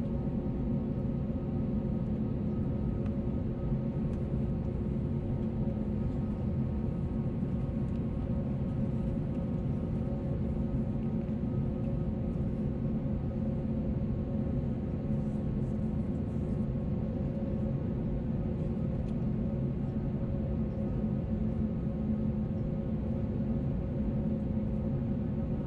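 Airbus A321neo jet engines running steadily, heard as a constant drone inside the passenger cabin, with several steady humming tones over a low rumble.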